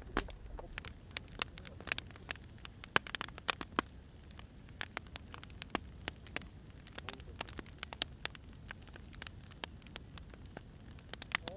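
Firewood burning, crackling with irregular sharp snaps and pops, some louder than others, over a low steady rumble of the fire.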